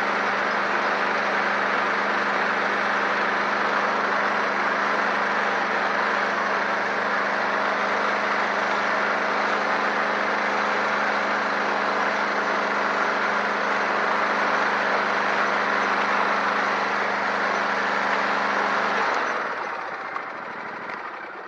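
An engine running steadily at an even speed, then switched off about 19 seconds in, its sound dying away.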